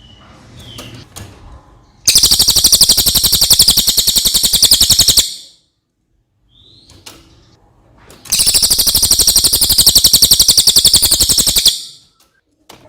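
Blue-crowned hanging parrot (cililin) giving two long, very rapid, shrill trills of about three seconds each, with a few short chirps before each trill.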